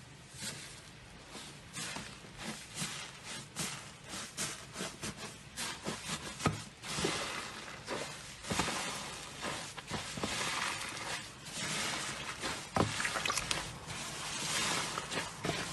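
Slime being squished and pressed by hand, making a busy, irregular run of sticky clicks, pops and crackles.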